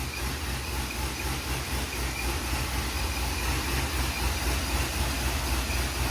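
Car engine and road noise heard from inside a moving car: a steady low rumble that builds slightly in loudness.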